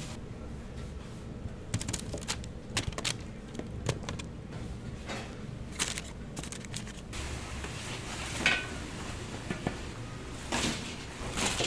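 Kitchen work at a food stall: irregular clicks and clacks of utensils and containers being handled, over a steady low hum.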